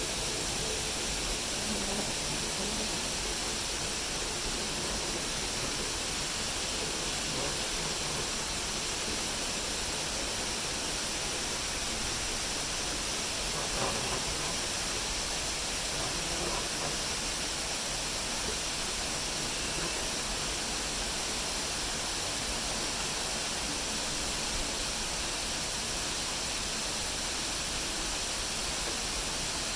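Steady rushing, hissing water noise that stays even throughout.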